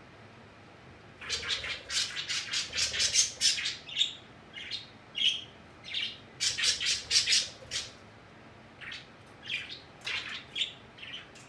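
Pet birds squawking and chirping in rapid, harsh bursts, starting about a second in and coming in clusters with short pauses.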